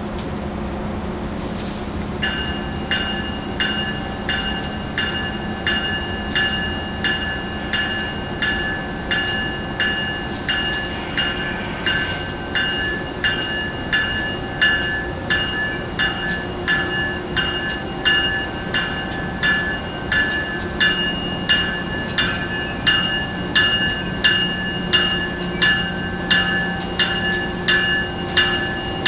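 Locomotive bell ringing steadily, about two strikes a second, starting a couple of seconds in, over the steady hum of an idling locomotive.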